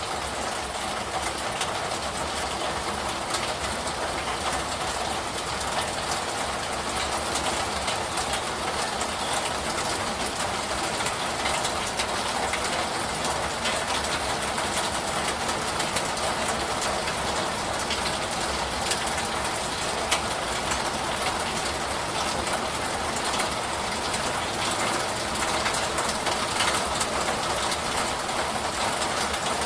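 Steady rain falling, a dense even hiss with many small drop hits crackling through it.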